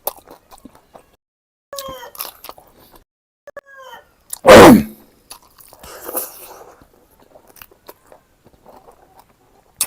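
A person chewing food with soft wet mouth noises and a few short falling vocal sounds. About four and a half seconds in comes one loud, short vocal burst that falls in pitch, like a sneeze.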